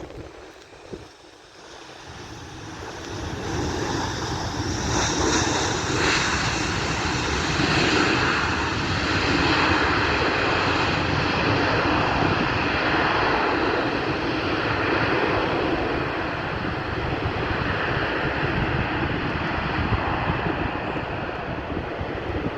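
Jet airliner's engines passing close, their noise swelling over a couple of seconds and then holding steady and loud, with a faint whine on top.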